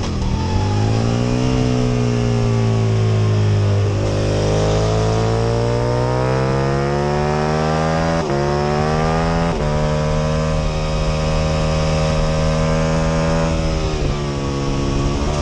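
Aprilia RSV Mille R's 998 cc V-twin engine accelerating hard, the pitch rising steadily, with two quick upshifts about eight and nine and a half seconds in before it holds high revs, easing slightly near the end.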